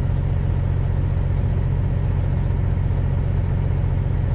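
Heavy diesel truck engine running steadily at a low, even idle-like drone.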